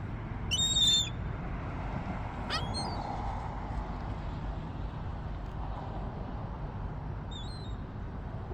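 Gulls calling: a loud harsh call about half a second in, a short falling call about two seconds later, and a fainter call near the end, over a steady low rumble.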